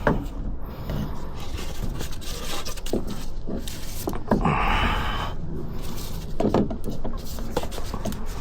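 Repair work on an ATV rear axle: scattered knocks and clunks of metal parts and tools being handled, with a short scraping rasp about four and a half seconds in, over a low steady hum.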